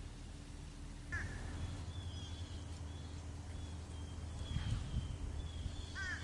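Birds calling: a short falling call about a second in and again near the end, with fainter high chirps between, over a low steady rumble.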